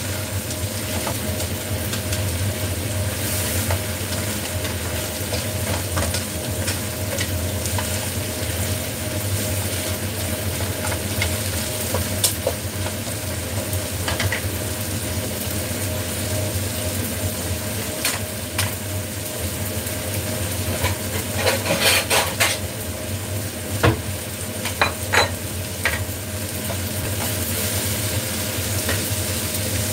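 Food sizzling in hot oil in a wok while it is stirred with chopsticks and a wooden spatula, over a steady hum. Sharp clacks of the utensils against the pan come now and then, most of them about two-thirds of the way in.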